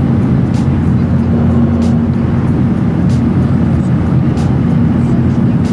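Steady cabin noise of a Boeing 737-800 in cruise: jet engine and airflow rumble with a constant low hum.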